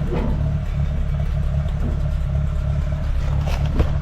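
1948 Allis-Chalmers C tractor's four-cylinder engine running steadily, with a brief knock near the end.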